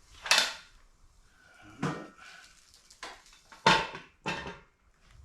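Five separate knocks and clunks of heavy metal jack parts being handled and set down, the loudest about a third of a second in and again near three and a half seconds.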